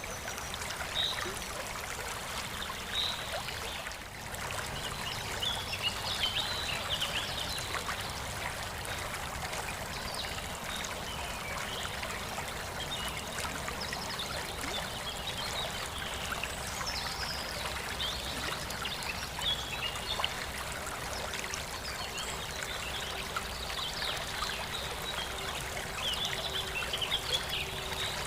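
Water trickling and gurgling steadily, with many small high plinks of splashing drops; a faint steady hum joins about halfway through.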